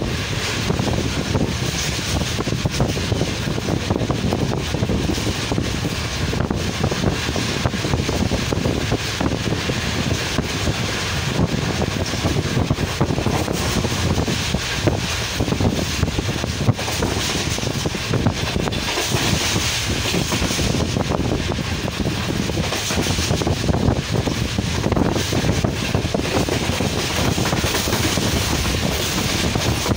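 Moving passenger train heard from inside a carriage at an open window: a steady rush of wind on the microphone over the running noise of the carriage on the track.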